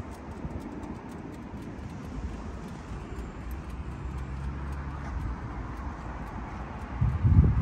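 Kawasaki Z1000 inline-four with a TOCE three-hole exhaust idling with a low, steady rumble, then a brief rev near the end.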